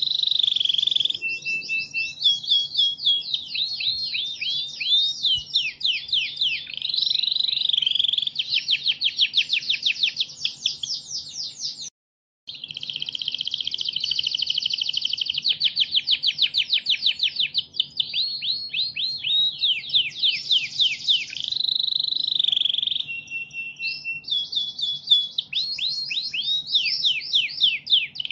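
Domestic canary singing a long, continuous song of rapid trills and rolls, fast repeated chirps sweeping up and down in pitch, with a brief break about twelve seconds in.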